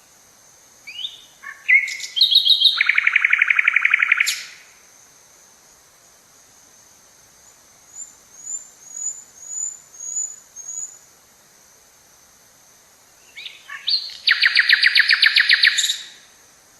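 Forest songbird singing twice: each song opens with a few separate notes and runs into a loud, fast, even trill lasting about two seconds. Between the two songs a softer bird gives a run of about six short high chirps.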